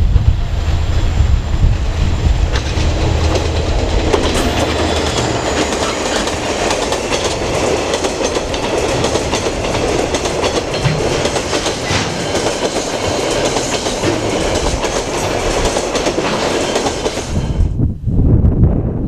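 Freight train wagons rolling past, the wheels clicking over the rail joints. The train sound cuts off abruptly near the end, leaving a low wind rumble on the microphone.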